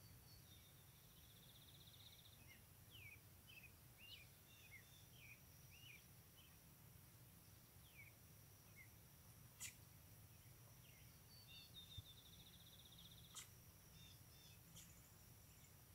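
Near silence: faint birds chirping in short calls, with a buzzy trill twice, over a steady faint high hum and low rumble. A few brief faint clicks stand out slightly above it.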